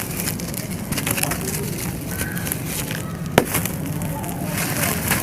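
Dry, brittle chunks being crushed and crumbling: a steady crackling crunch, with one sharp snap a little past the middle.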